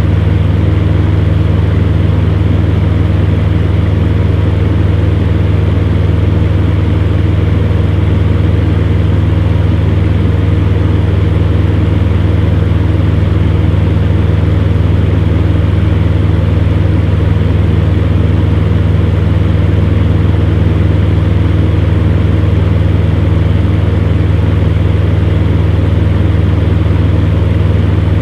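Electric fan heater running steadily: an even motor hum with a strong low drone under a constant rush of blown air.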